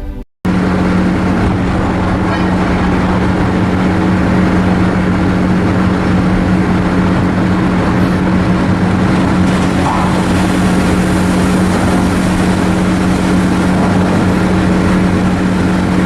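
Steady engine drone with a constant low hum over a noisy wash, unchanging throughout.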